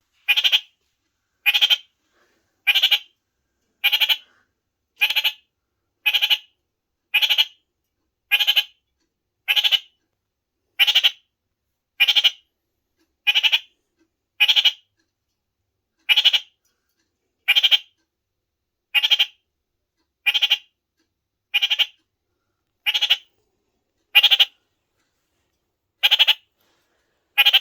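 Pet kakariki (New Zealand parakeet) calling over and over: one short, loud call about every second, repeated steadily.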